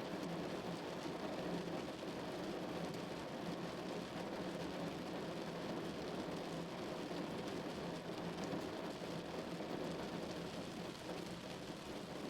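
Heavy rain falling steadily: a dense, even hiss and patter of drops with no single louder event.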